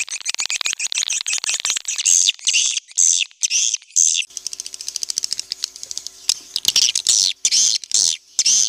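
Swiftlet calls: a fast, buzzy train of high clicks, then a run of short, high chirps repeating about twice a second. The chirps pause briefly in the middle and then pick up again.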